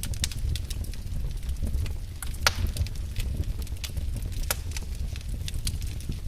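Wood fire burning in a fireplace: a steady low rumble of flame with scattered crackles and pops from the logs. The sharpest pop comes about two and a half seconds in, another near four and a half seconds.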